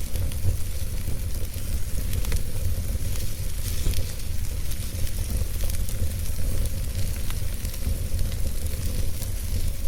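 Fire burning, with scattered sharp crackles and pops over a steady low rumble.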